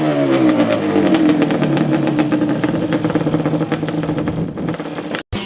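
2002 Yamaha Banshee 350's twin-cylinder two-stroke engine running. Its pitch falls as the revs drop in the first second, then holds steady, and the sound cuts off abruptly just before the end.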